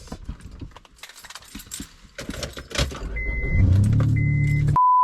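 Keys jangling and clicking, then two short electronic chimes from the car and a car engine starting to run with a steady low hum. Near the end a steady pure censor bleep tone cuts in.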